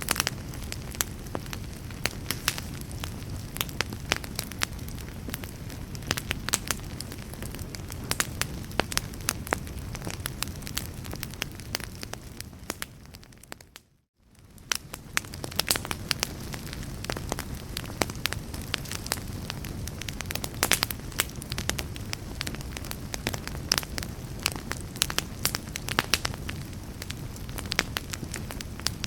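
Wood fire burning, with dense sharp crackles and pops over a low steady rumble. About halfway through it fades out to near silence for a moment, then fades back in.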